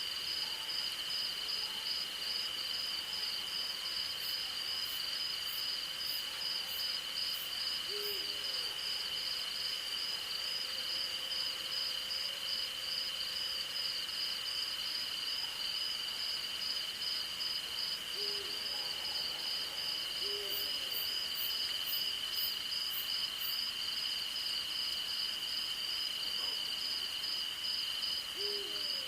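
Night insect chorus of crickets: a steady high-pitched drone with a fast pulsing trill just above it. A few faint, short low hoots of an owl come through now and then, and two brief runs of very high ticks sound.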